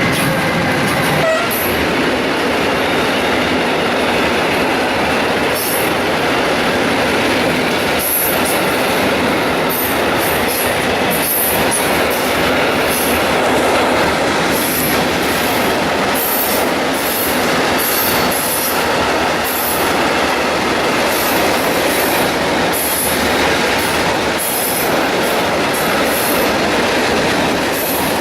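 Loaded freight wagons of a stone train rolling past at close range: a continuous loud rumble and clatter of steel wheels on rail. From about eight seconds in, short high-pitched squeals and screeches come again and again.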